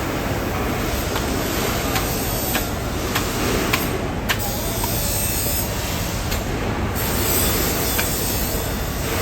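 Steady rumbling background noise with scattered sharp clicks and knocks, several in the first half.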